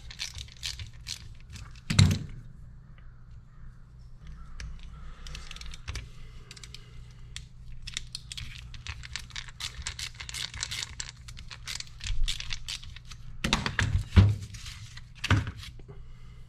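Metal parts and tools clinking and rattling as they are handled, with a few heavier thunks about two seconds in and again near the end, over a steady low hum.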